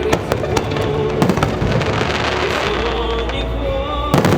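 Fireworks bursting and crackling in quick succession, with a cluster of loud bangs near the end, while music plays along.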